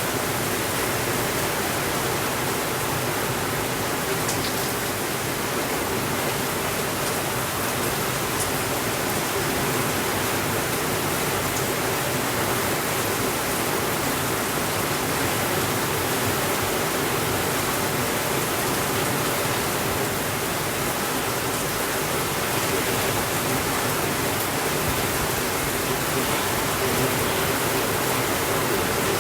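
Steady rainfall, an unbroken even hiss with no thunder.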